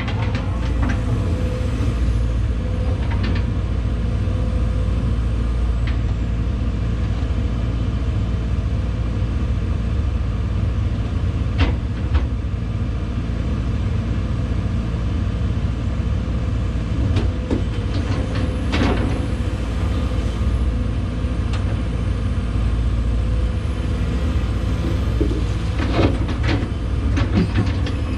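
Case 210 excavator's diesel engine running steadily under work, with a few sharp knocks and clanks over it, one about twelve seconds in, one near nineteen seconds and one near twenty-six seconds.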